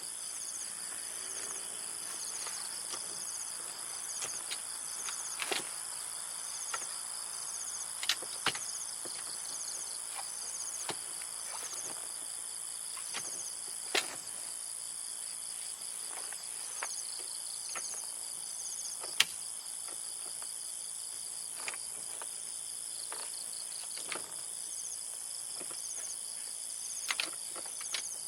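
Crickets and other insects trilling in a steady high drone, with a chirp repeating about once a second. Scattered sharp clicks and knocks sound over it.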